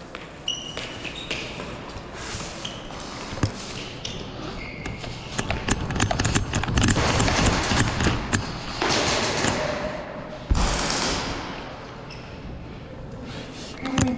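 Player movement during an indoor airsoft game: footsteps, gear rustle, and scattered clicks and knocks, busiest around the middle. There is one hard thump about ten and a half seconds in.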